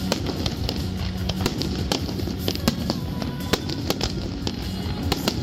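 Aerial fireworks bursting and crackling: irregular sharp bangs and pops, several a second, with music playing along underneath.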